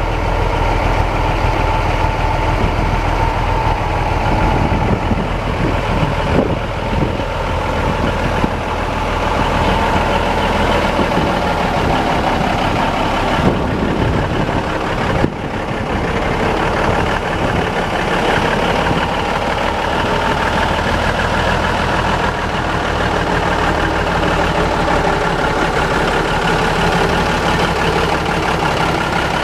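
Engine of a 1977 Ford 9000 tandem-axle grain truck running steadily at idle.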